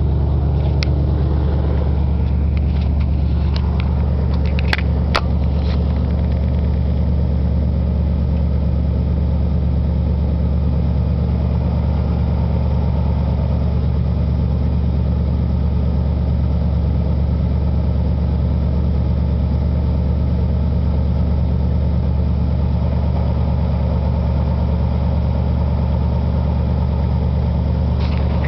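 Straight-piped Buick exhaust running steadily at a constant engine speed, a loud low drone that neither rises nor falls. A few sharp clicks come about four to five seconds in.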